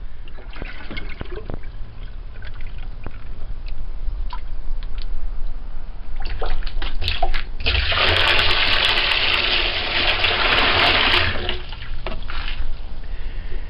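Rainwater being bailed with a one-gallon milk jug into a 45-gallon rain barrel. Scattered splashes as the jug is dipped and filled, then a steady pour of water for about four seconds past the middle, then a few more splashes.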